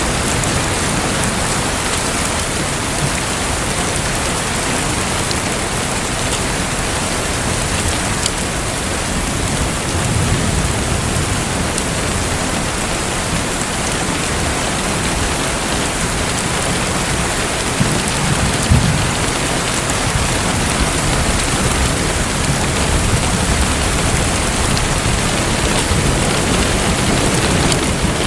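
Steady hiss of falling water, like heavy rain, with low rumbles about a third of the way in and more strongly about two-thirds of the way through.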